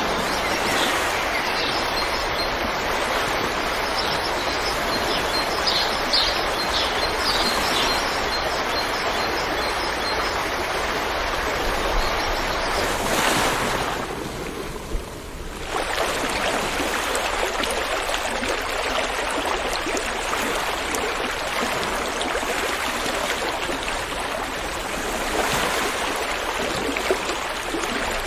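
River water rushing steadily, with birds chirping over it during the first several seconds. The water noise dips briefly about halfway through, then carries on.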